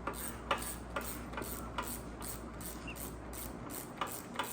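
Scattered light clicks and taps of metal tools and engine parts being handled, at irregular intervals over a low steady hum.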